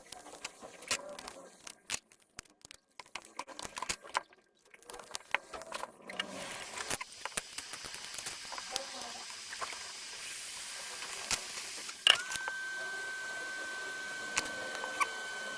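Small clicks and taps of tools working on a phone, then a steady hiss from about six seconds in. Near the end a sharp click is followed by a steady, high, single electronic tone.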